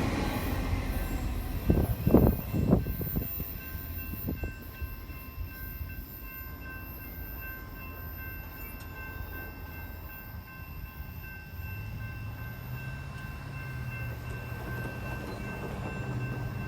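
Train on the rails at a station, with a steady low rumble and a few sharp metal clanks in the first few seconds. Faint steady high squeal tones carry on above it, and a low hum comes in after about twelve seconds.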